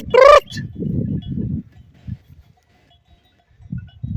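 Low, rough bleating from a flock of livestock, two bouts about a second in and near the end, with faint bell tinkles, after a herder's loud shout cuts off at the start.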